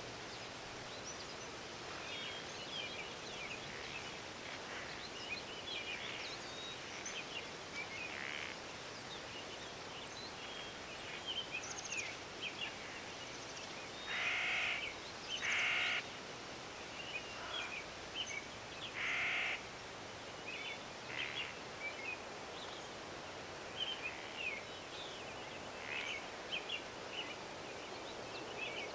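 Forest ambience: many small birds chirping over a steady hiss of background noise, with a crow cawing three times, loudest, around the middle.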